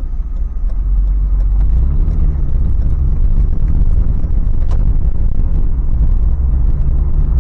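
Steady low drone of a Toyota 4Runner on the move, its 4.0-litre V6 running with tyre and road rumble from big off-road tyres, heard from inside the cabin.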